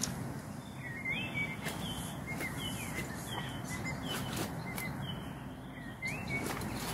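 A small bird singing a repeated series of short, swooping chirps, about one or two a second, over a steady low outdoor rumble.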